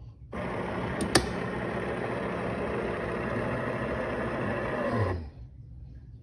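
De'Longhi TrueBrew coffee maker starting a 3-ounce brew: a steady mechanical whir with two sharp clicks about a second in, which winds down and stops about five seconds in.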